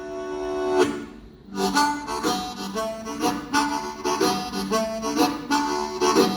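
Solo blues harmonica: a long held chord that breaks off just under a second in, then after a short pause a rhythmic riff of short, repeated notes.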